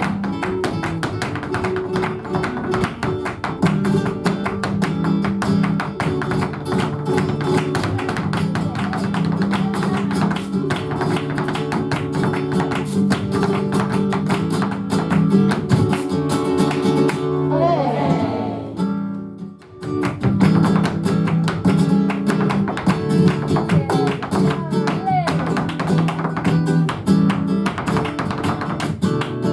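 Live flamenco music in the guajira style: strummed and plucked flamenco guitar with dense percussive strikes, most likely a dancer's footwork, a sung line near the middle, and a brief drop in volume a little past halfway.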